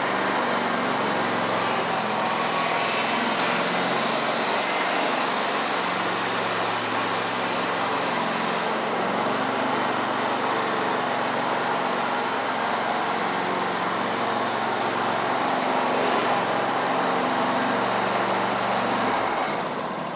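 John Deere L120 lawn tractor's 20 hp Briggs & Stratton Intek engine running at a steady speed, then shutting off near the end.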